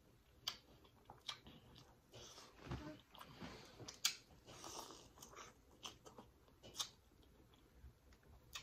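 Close-miked eating of boiled corn on the cob: soft chewing broken by scattered sharp mouth clicks and lip smacks, the sharpest about four seconds in as a bite is taken.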